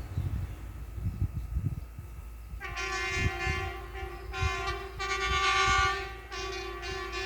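Rail track inspection car running with low rumbling knocks, then sounding its horn in three blasts, the middle blast the longest.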